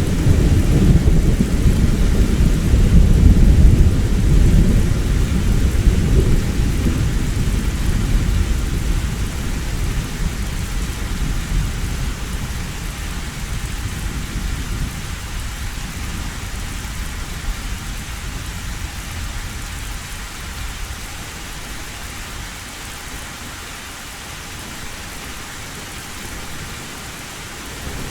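A long roll of thunder, loudest in the first few seconds and slowly dying away over about twenty seconds, over steady heavy rain on a metal roof.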